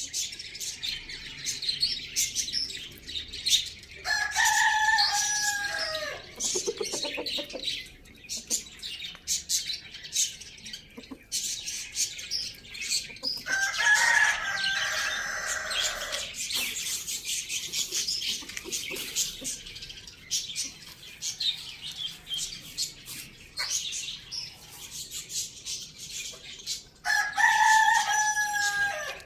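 Rooster crowing three times, each crow about two to three seconds long, over steady chirping of small birds.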